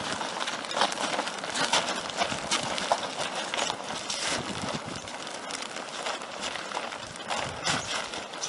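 Irregular crackling and clattering of the AquaDam's plastic tube being pulled and shifted across the ground.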